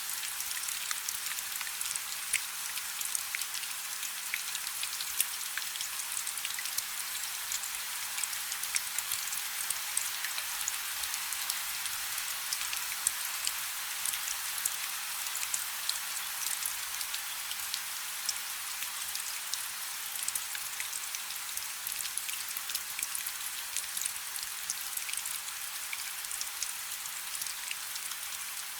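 Light rain falling steadily, a fine even hiss dotted with many small sharp drop ticks.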